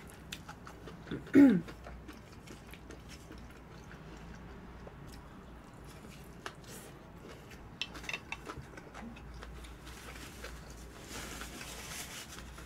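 Close-miked eating: soft chewing and biting with small wet clicks of the mouth, and a few light clicks around the eight-second mark. About a second and a half in, a short vocal sound falling in pitch stands out as the loudest moment.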